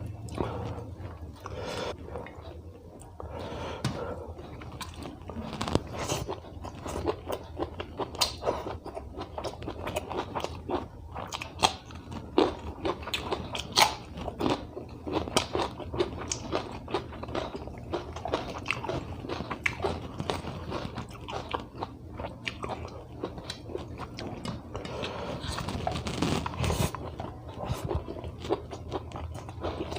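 Close-up chewing and biting of a rice, dal and vegetable meal eaten by hand, with many irregular, quick crunches.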